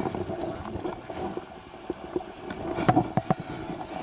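Rustling and handling noise on a body-worn police camera's microphone, with a steady background hum and scattered small knocks.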